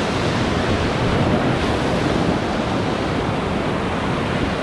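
Whitewater river rapids rushing steadily around a raft, a loud even roar of moving water.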